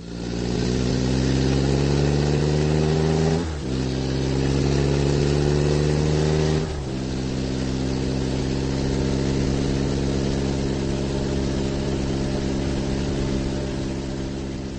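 Car engine accelerating through the gears: its pitch climbs, drops at a gear change a few seconds in, climbs again, drops at a second change about halfway through, then holds steady as the car cruises.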